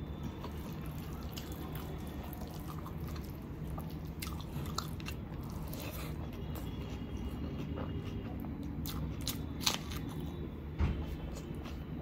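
Close-miked chewing and mouth sounds of a person eating chicken biryani by hand, with scattered short clicks and smacks. The sharpest click comes a little before ten seconds in, and a low thump follows about a second later.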